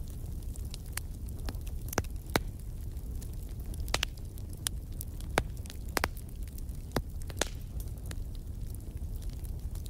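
Wood fire burning in a fireplace: a steady low rumble of the flames with irregular sharp crackles and pops from the burning logs, the loudest about two seconds in and several more through the middle.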